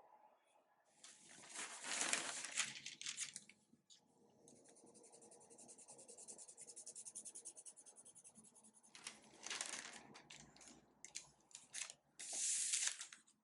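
Dry papery rustling and scraping in several bursts, with a few seconds of fast, even back-and-forth scratching in the middle.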